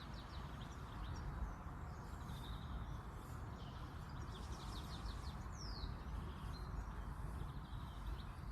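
Small birds calling in short, rapid chirping trills, one with a quick falling note, over steady low outdoor background noise.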